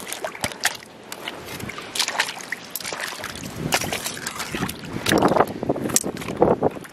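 Rocks being turned over on a rocky shore: scattered clacks of stone on stone, with seawater sloshing and trickling around them. There is a louder stretch of sloshing about five seconds in.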